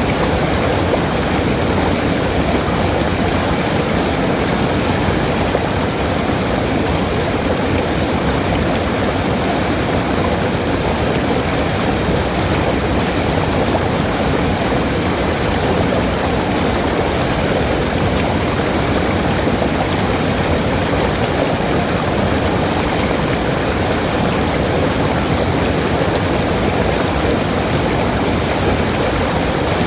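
Waterfall: a steady, unbroken rush of falling water, heavier in the low and middle range, with no change in level.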